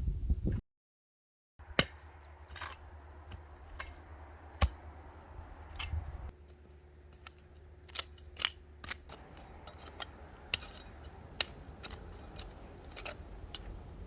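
Sharp, irregularly spaced clicks and snaps, about a dozen, over a low steady hum. The sound cuts out completely for about a second near the start.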